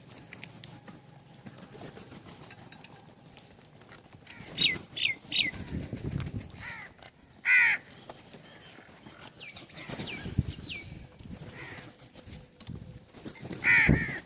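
Birds calling: bursts of short chirps that fall in pitch, three quick ones together, with two louder, fuller calls about halfway through and near the end.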